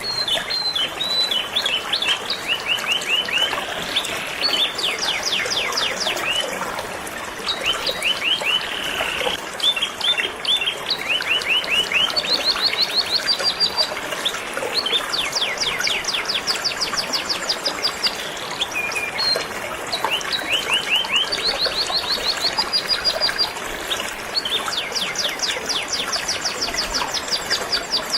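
Canary singing in long, rapid trills of repeated chirps that follow one another almost without pause, over the steady rush of flowing river water.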